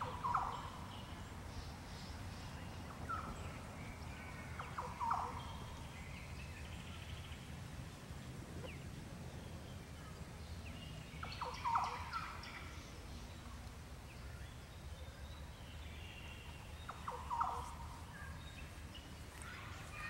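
Birds calling: four short calls a few seconds apart, with fainter high twittering between them, over a steady low background rumble.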